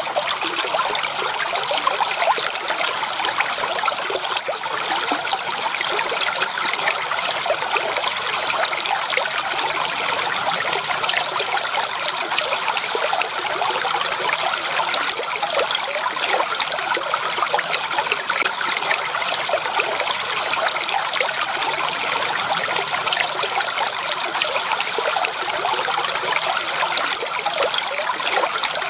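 Shallow stream water running and trickling over stones: a steady, dense babble of small splashes and gurgles with no pauses.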